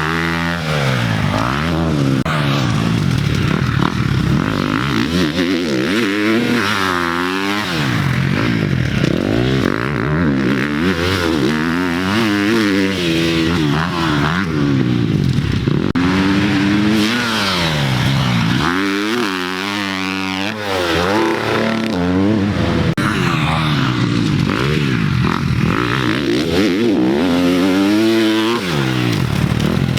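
Dirt bike engine revving up and falling back again and again as the throttle is opened and closed while riding a motocross track.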